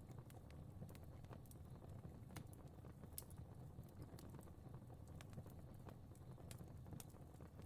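Fireplace fire crackling quietly: irregular small pops and snaps over a low, steady rumble of the flames.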